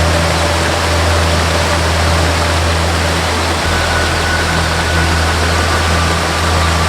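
Steady rushing of a waterfall, with a soft melody of long held notes and a deep low drone under it; the drone shifts about halfway through.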